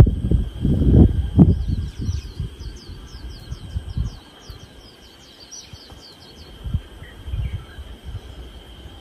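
A songbird sings a quick run of about a dozen short, falling, high notes over a steady high insect drone. Low rumbling thumps are loudest in the first second and a half.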